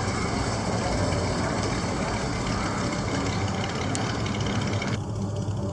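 Car engines running at low speed with steady street noise as vehicles cruise past.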